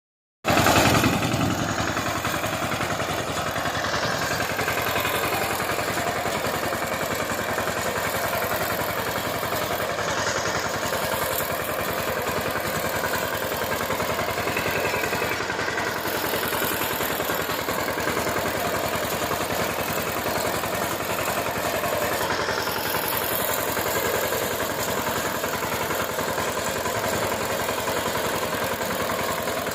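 VST Shakti power tiller's single-cylinder diesel engine running steadily with an even clatter.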